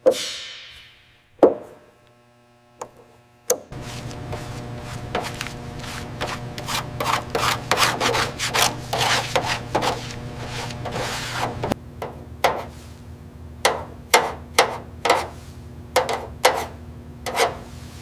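Hand-tool rasping in a workshop: a few sharp clicks, then a steady low hum under a run of scraping strokes. From about twelve seconds in, the strokes come one at a time, roughly two a second.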